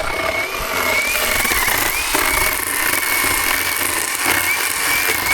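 Battery-powered 48V cordless chainsaw running steadily, with a high whine that wavers and dips slightly now and then over a dense rushing hiss.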